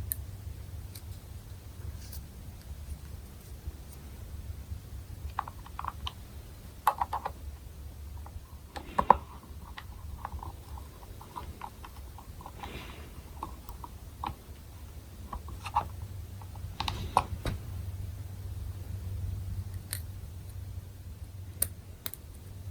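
Small irregular clicks and rattles of hands working plastic helmet parts and small screws while a rear flap is fitted to a Shoei X-14 motorcycle helmet, over a steady low hum.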